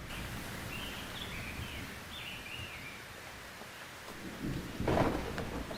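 Thunderstorm ambience: steady rain with a few birds chirping in the first seconds, and a rumble of thunder swelling about four and a half seconds in.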